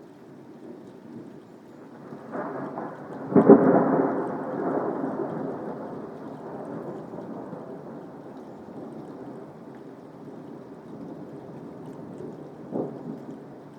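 Steady soft rain with a clap of thunder about three seconds in that rolls on and fades over several seconds, then a short, fainter crack near the end.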